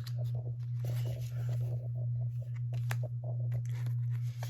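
Old paper postcards and playing cards being handled and shuffled, with soft rustles and a few sharp clicks, over a steady low hum.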